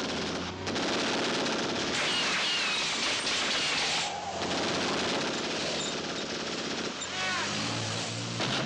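Rapid, sustained machine-gun fire in a film action soundtrack, easing briefly about four seconds in. High squealing glides cut through it about two seconds in and again near the end.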